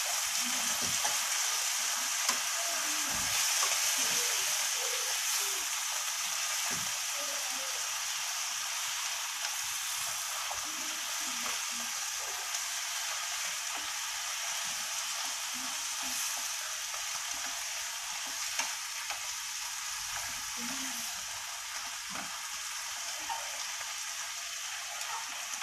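Pieces of beef tongue sizzling in a hot frying pan while being stirred with wooden chopsticks: a steady frying hiss with a few light clicks of the chopsticks against the pan.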